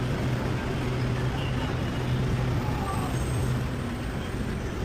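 A light-rail train running, with a steady low motor hum over rumbling noise. The hum drops away near the end.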